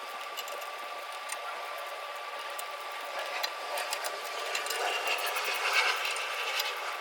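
Hand ratchet clicking while tightening the front timing cover bolts on an LS 5.3 V8, the clicks coming in quick runs that get busier past the middle. A steady thin high whine runs underneath.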